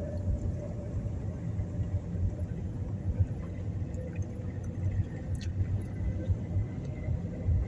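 Wind buffeting the microphone: a low, gusty rumble that swells and drops irregularly.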